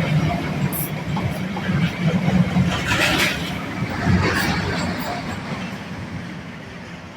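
Freight train hauled by a Class 66 diesel locomotive rolling past, its wagons making a steady rumble and rattle on the track, with a couple of louder rattles around the middle. The sound fades away over the last seconds as the train recedes.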